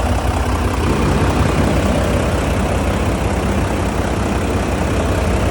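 The diesel engine of a 2008 Volvo truck idling steadily with a low, even rumble.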